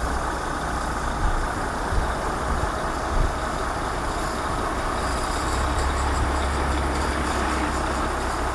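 Heavy recovery truck's diesel engine running steadily under load during a trailer recovery, with a few short knocks in the first few seconds.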